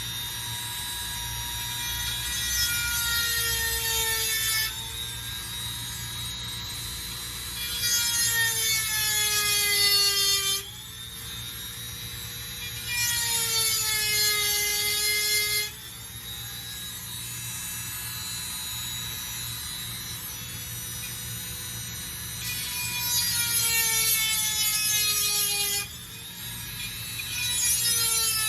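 Dremel rotary tool running at top speed with a 7/32 chainsaw sharpening stone, a high whine that dips in pitch each time the stone is pressed into a chain cutter and recovers between cutters. Several longer passes add a harsher grinding hiss.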